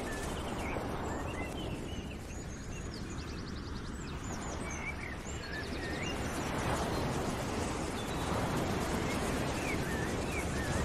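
Birds chirping, with short whistled notes and a few quick trills, over a steady rushing outdoor background noise.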